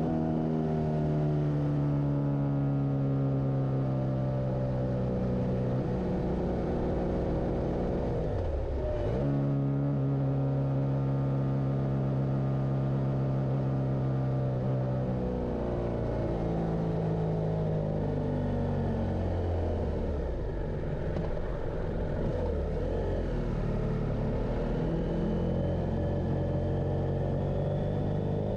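Motorcycle engine running on the road, its pitch holding steady for stretches and then falling and rising again with the throttle and gear changes, with a quick dip and rise about nine seconds in. A steady low rumble of wind and road noise runs underneath.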